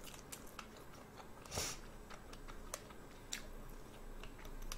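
Close-up chewing of boiled red shrimp: faint, scattered wet mouth clicks, with one louder short noise about a second and a half in.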